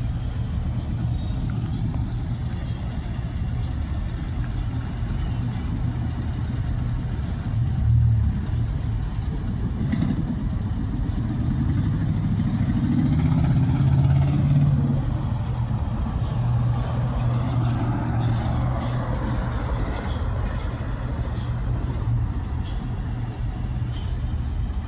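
Car engines running with a steady low rumble, growing louder for a few seconds about halfway through as a vehicle moves close by.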